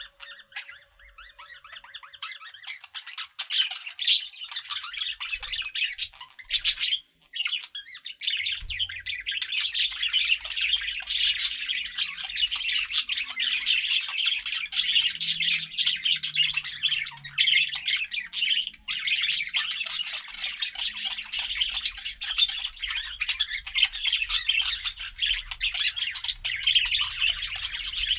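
Budgerigars chirping and chattering, several birds at once. The chirps come sparsely at first, then from about three seconds in they run together into a dense, continuous warble.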